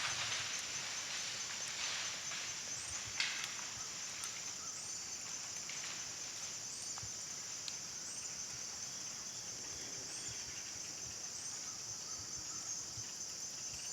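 Steady high-pitched drone of an evening insect chorus, with a faint chirp repeating about once a second above it. A few soft snaps sound in the first few seconds.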